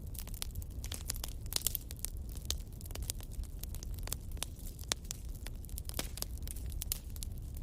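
Wood fire crackling: irregular sharp pops and snaps, a quick cluster of them about a second and a half in, over a steady low rumble.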